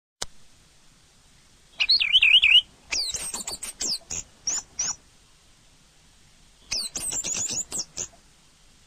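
Orange-headed thrush singing: a wavering whistled warble, then a quick run of sharp falling notes, and after a pause a second run of falling notes. A brief click comes right at the start.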